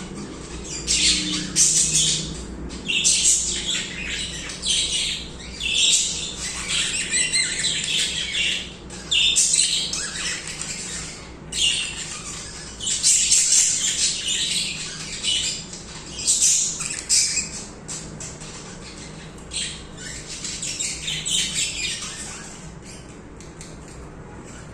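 Budgerigars chattering and warbling continuously, dense overlapping runs of chirps and harsh calls; the chatter thins out near the end.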